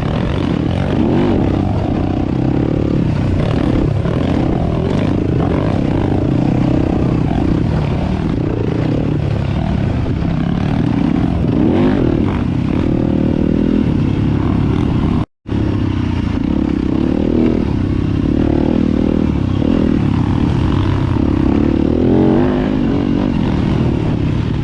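Dirt bike engine running under load on a sandy trail, its pitch rising and falling as the throttle opens and closes. The sound cuts out completely for a split second about fifteen seconds in.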